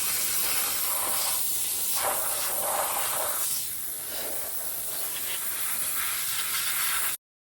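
Car-wash air hose blowing with a steady loud hiss as it is used to clean out the car's crevices. It dips slightly partway through and cuts off abruptly near the end.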